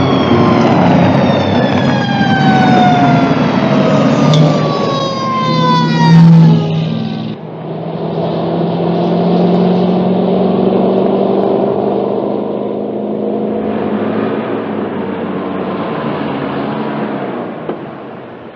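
Car engines running at speed, with a pitch that falls steadily over about the first seven seconds. An abrupt cut follows, to a steadier engine note that slowly climbs in pitch.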